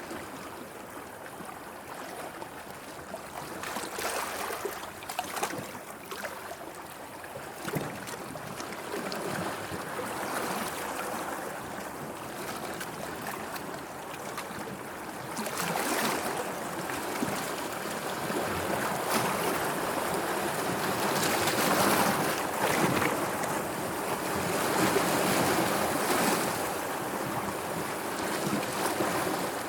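Sea waves washing in, an unbroken rush of water that swells and ebbs in irregular surges, louder in the second half.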